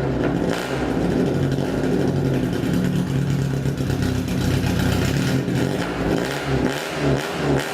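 Honda 1300 Coupe race car's air-cooled four-cylinder engine running through a one-off exhaust. It is held at steady revs for about five seconds, then the throttle is blipped in quick repeated revs near the end.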